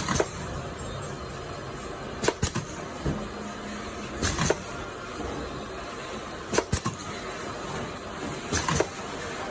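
Sharp knocks in pairs, repeating about every two seconds over a steady background noise, like a tool or machine working in an even rhythm.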